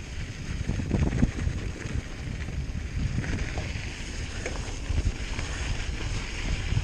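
Hardtail mountain bike riding a dirt trail: tyres rolling over dirt and rocks, with many short knocks and rattles, and wind buffeting the microphone.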